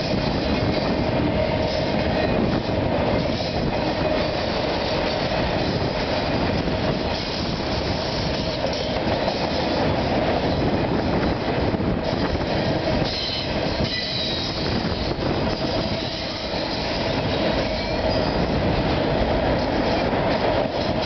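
Loaded autorack freight cars rolling past on the rails: a steady, loud rumble of steel wheels with a continuous squealing tone running through it. Fainter, higher squeals come in past the middle.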